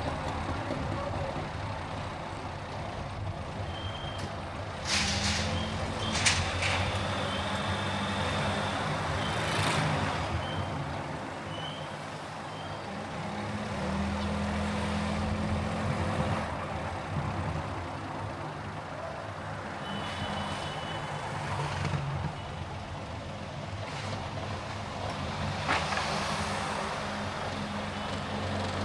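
A car driving through city traffic: a steady low engine and road rumble that rises and eases, with a few short high beeps and occasional sharp clicks.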